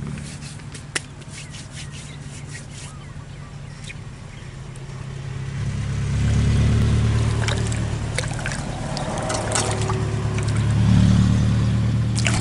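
An engine running with a low hum that grows louder about halfway through and swells again near the end, as a motor vehicle or boat passes close by. Light clicks and ticks sound in the first few seconds.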